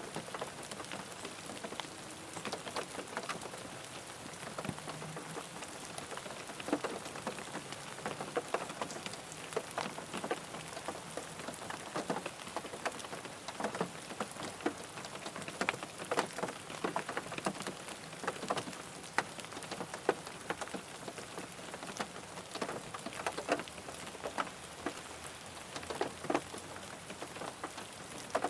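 Rain falling on a car: a steady hiss of rain with many single drops tapping sharply on the body.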